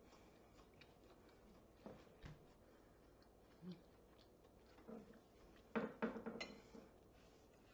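Faint chewing of a green tea Kit Kat, a white-chocolate-coated wafer bar, with a few soft crunches and a louder cluster of them about six seconds in.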